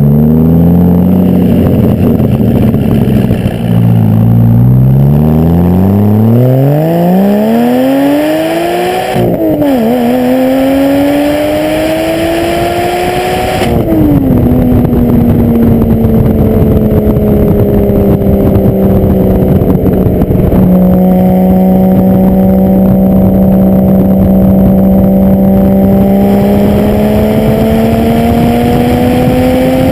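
Porsche 986 Boxster S 3.2-litre flat-six exhaust through a Stebro race muffler and secondary-cat bypass pipes, heard close at the rear bumper. After the revs fall off, they climb hard under full throttle, dip quickly in a gear change about nine seconds in, and pull on again. About fourteen seconds in the revs drop and settle into a steady cruise, creeping up slightly near the end.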